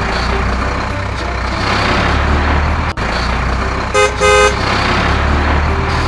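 Cartoon truck engine effect running steadily. A horn honks twice in quick short blasts about four seconds in.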